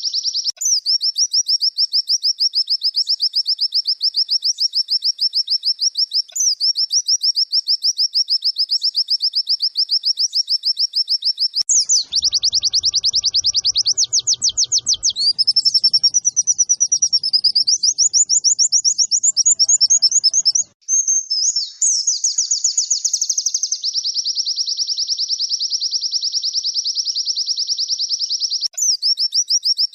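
Recorded white-eye (pleci) song used as a masteran to train caged birds: a loud, very fast, high trill that breaks off and starts again every six seconds or so. Between about 12 and 24 seconds it gives way to a more varied warbling phrase, then the steady trill resumes.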